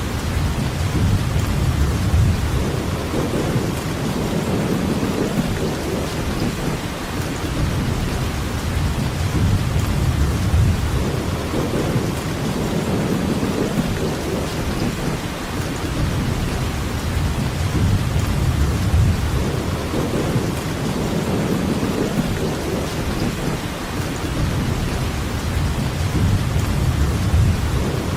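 Steady heavy rainfall, with a low rumble that swells and fades every few seconds underneath it.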